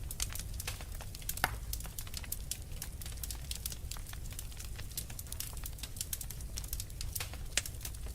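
Wood fire crackling with frequent irregular pops and snaps over a low steady rumble; one sharper pop stands out about a second and a half in.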